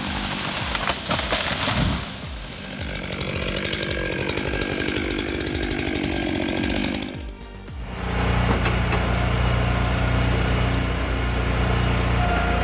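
A Stihl MS661 chainsaw running and cutting wood. About eight seconds in it gives way to a steady, loud low engine drone.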